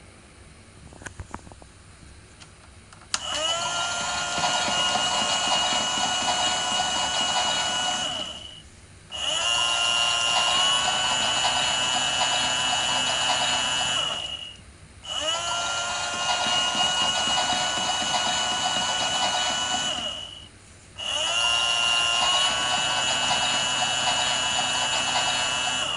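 Small battery motor of a toy Miele washing machine turning its drum, running with a steady whine in four spells of about five and a half seconds, each starting with a short rise in pitch and stopping briefly before the next. A few faint clicks come about a second in, before the first run.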